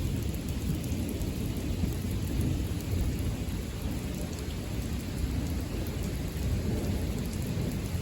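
Heavy rain falling during a thunderstorm, with a steady low rumble of thunder and no sharp crack.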